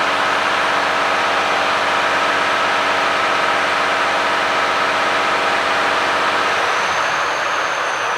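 Volvo FH460 lorry's 13-litre straight-six diesel idling steadily. About six and a half seconds in, the deep engine note fades, leaving a hiss and a high whine that rises and falls.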